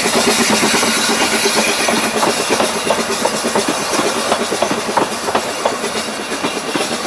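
Narrow-gauge railway carriages rolling past behind a steam locomotive, their wheels clicking over the rail joints over a steady hiss. The sound slowly fades as the train moves away.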